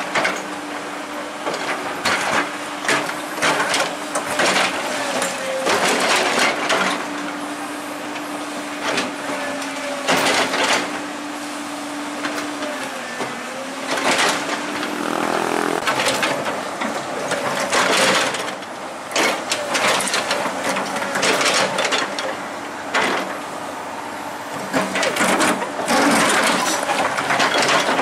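Heavy diesel machinery running, its steady engine note dropping away about halfway through, under many short bursts of noise.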